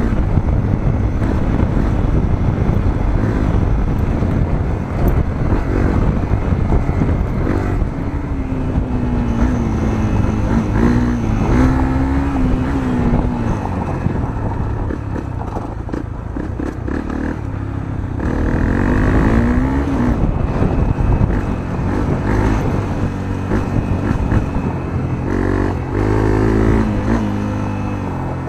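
Honda CRF250L's single-cylinder four-stroke engine running through a Moriwaki aftermarket muffler, heard from onboard the motorcycle while it is ridden. The revs rise and fall again and again, climbing notably around the middle and again near the end.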